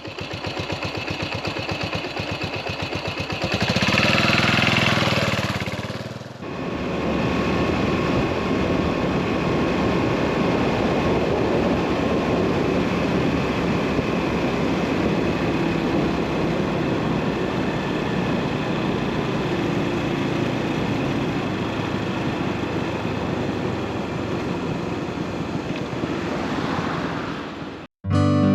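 Yamaha SR400's carbureted single-cylinder engine running: an even, pulsing idle, louder from about four seconds in, a brief drop near six seconds, then a long steady run with a broad rush of noise. It cuts off just before the end.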